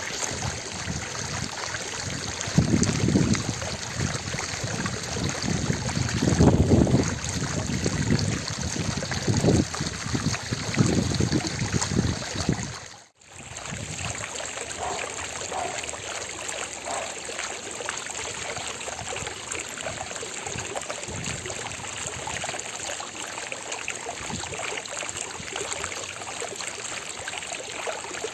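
Fountain water splashing and trickling steadily, with louder low surges in the first half. It drops out for a moment about halfway through.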